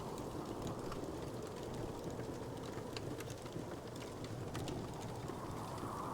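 Wood fire crackling in a fireplace: scattered small, sharp pops and ticks over a steady low rushing background.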